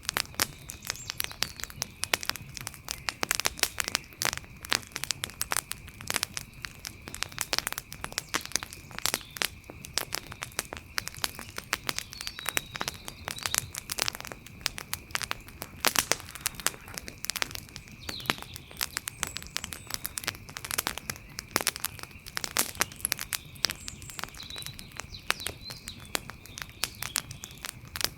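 Wood fire crackling, with a constant stream of sharp pops and snaps. Faint short chirps come in about halfway through and again near the end.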